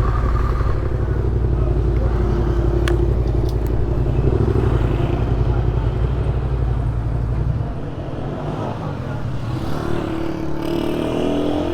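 Yamaha Ténéré 700's parallel-twin engine idling steadily, then switched off about eight seconds in. Street noise and a few light clicks follow.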